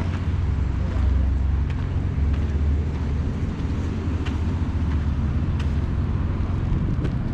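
Bicycle tyres rolling over a gravel path, a steady low rumble with a few faint ticks.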